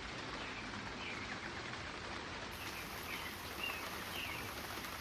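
Heavy rain falling with a steady hiss, with a few short bird chirps over it, several of them in the second half.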